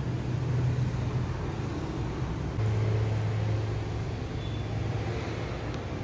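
Steady low hum over a background rumble like distant traffic, with the hum changing to a slightly lower, stronger tone about two and a half seconds in.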